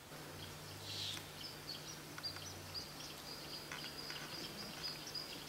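Small birds chirping in short, high, repeated notes over a faint steady low hum.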